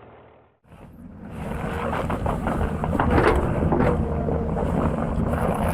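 A heavy vehicle's engine running steadily, with wind noise on the microphone, starting after a brief drop-out about half a second in.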